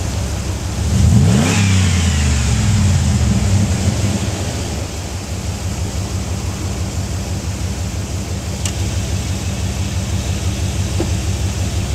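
2003 Dodge Dakota's 4.7-litre V8 exhaust, through a Magnaflow muffler with dumps ahead of the rear axle: a quick rev about a second in, held for a few seconds, then settling back to a steady idle.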